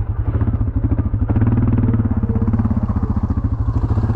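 ATV engine running under load with a fast, even pulse. It gets louder and a little higher about a second in as the throttle opens, pulling through muddy ruts in two-wheel drive.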